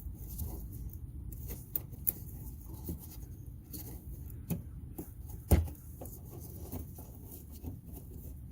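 Scattered small clicks and knocks of hands and tools working on a car's front-end parts and wiring clips, with one louder knock about five and a half seconds in, over a low background rumble.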